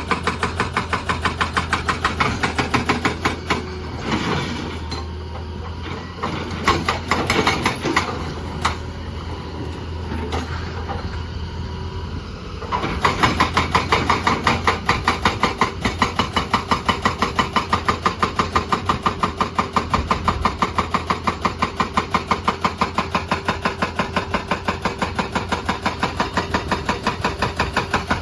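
Excavator-mounted hydraulic breaker hammering in a fast, steady rhythm over the running diesel engine. The hammering stops about four seconds in, leaving the engine and a few separate knocks, then resumes about thirteen seconds in.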